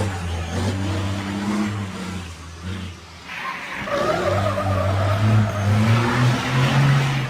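Diesel truck engine revving under load, dropping off about three seconds in, then building again and rising in pitch toward the end.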